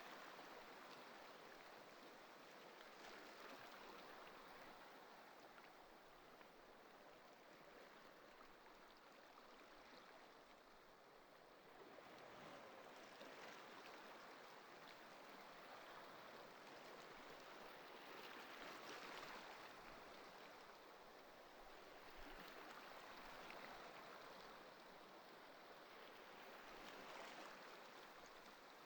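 Faint ocean waves washing in: a steady hiss that swells every few seconds as each wave breaks and then eases back.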